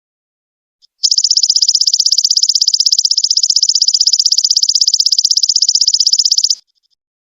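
Golden locust (belalang emas) insect song: a loud, rapid, evenly pulsed high-pitched buzzing trill. It starts about a second in, just after a single short chirp, and cuts off abruptly near the end.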